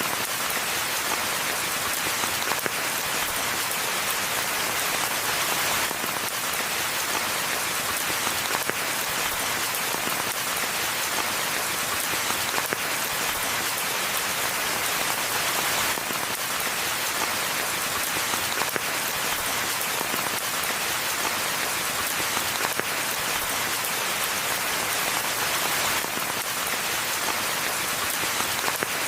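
Steady rain falling in a forest, a continuous hiss of many small drops pattering on leaves and the ground.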